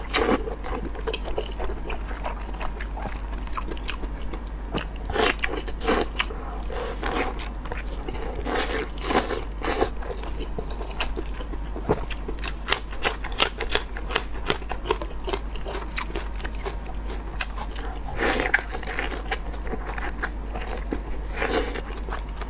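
Close-miked mouth sounds of biting into and chewing sauce-coated tied intestine (kun chang). Irregular bites and chews throughout, with a few louder bursts of crunching around 5, 9, 18 and 21 seconds in.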